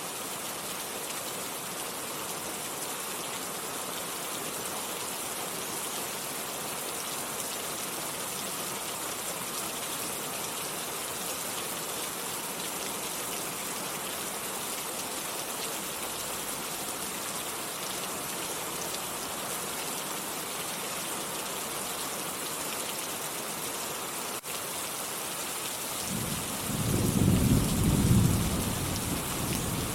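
Steady rain hiss. Near the end a low rolling rumble of thunder swells up over the rain and becomes the loudest sound.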